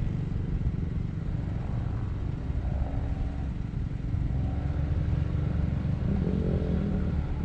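Jeep SUV's engine pulling it slowly up a steep dirt hill under load, a low steady rumble.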